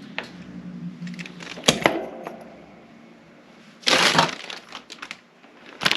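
Small metal lock parts and keys handled on a workbench: a few sharp clicks about two seconds in, then a short scraping rattle about four seconds in, with a faint steady hum underneath.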